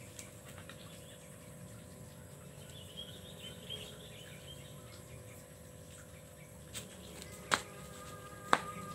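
Faint bird chirping outdoors a few seconds in, over steady background noise, then two sharp clicks about a second apart near the end.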